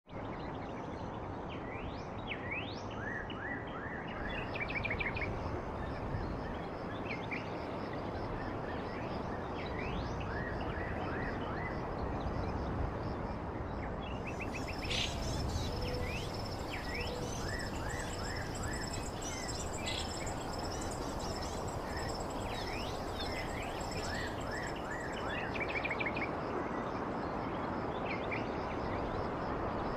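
Birds chirping in short, quick rising calls over a steady background hiss. From about halfway a steady high-pitched buzz, like an insect, joins for around ten seconds.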